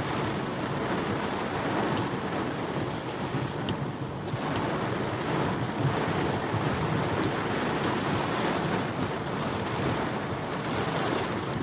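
Heavy monsoon rain pouring steadily, heard from inside a car as an even rushing noise.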